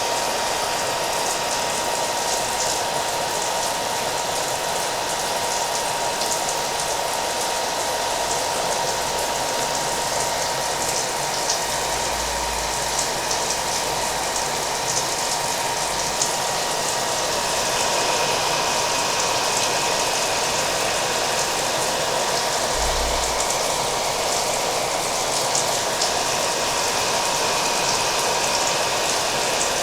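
Hair dryer running steadily, its motor giving a thin steady whine, mixed with the steady hiss and patter of rain.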